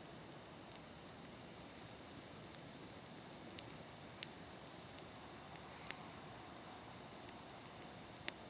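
Bonfire crackling: a soft steady hiss with sharp pops at irregular intervals, the loudest about four seconds in.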